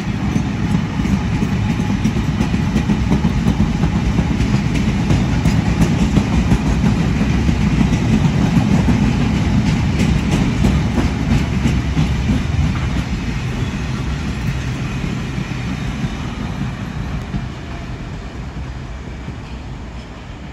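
Freight train of tank wagons passing close by, a steady rumble of wheels on rail with quick clicks over the rail joints, dying away over the last several seconds as it draws off.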